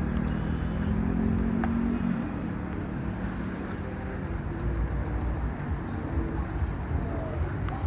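Road traffic going by: a passing vehicle's engine hum is strongest over the first two seconds, then a steady low traffic rumble.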